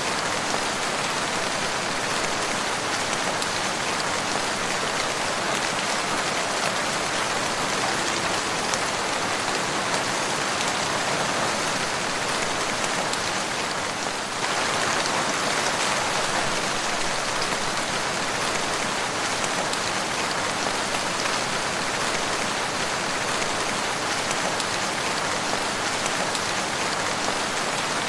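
Steady rain falling, an even, dense patter that dips briefly about halfway through.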